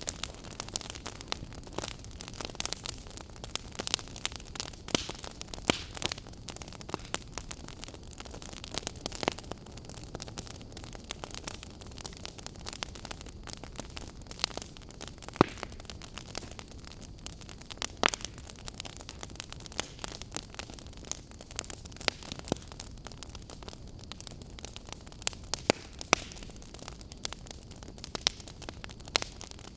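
Wood fire in a fireplace crackling, with irregular sharp pops and snaps over a steady low hiss.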